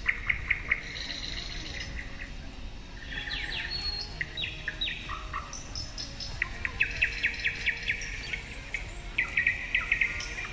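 Small birds chirping in quick runs of short, downward-sweeping calls, repeated over and over.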